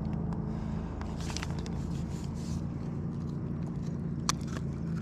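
Steady low hum of a running motor, with light handling rustles and a single sharp click about four seconds in.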